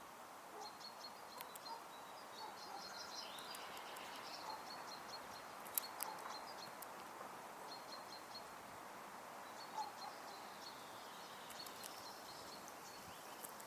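Faint songbird chirps and trills repeating throughout over a steady outdoor background hiss, with one sharp click about six seconds in.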